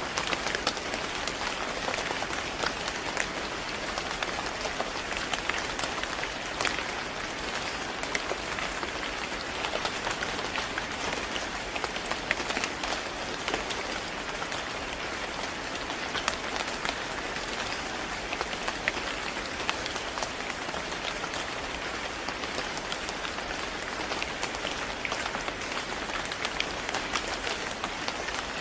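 Steady rain falling on a surface: an even hiss dotted with many sharp, quick drop ticks.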